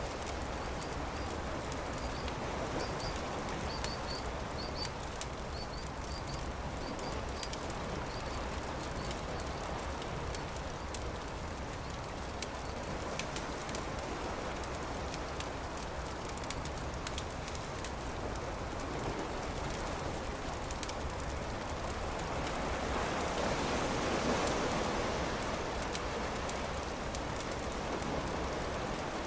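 Campfire crackling with scattered small pops over a steady wash of surf, a wave swelling louder a little after the middle. A bird chirps a few times in the first several seconds.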